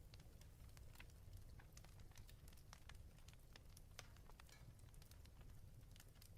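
Faint fireplace crackling: irregular small pops and snaps over a low, steady rumble.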